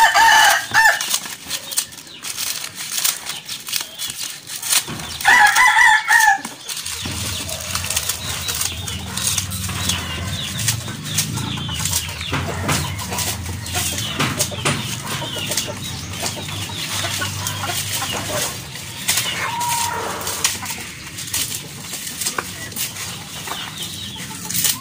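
Two loud chicken calls of about a second each, one at the start and one about five seconds in, over the dry crackle and snip of scissors cutting dried banana leaves.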